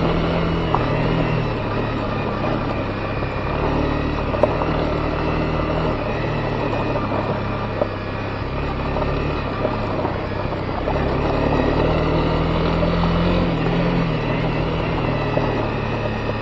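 Honda CB250R's single-cylinder engine running under way on a gravel forest road, its note rising and falling with the throttle every few seconds over a steady haze of tyre and wind noise. A few sharp clicks stand out.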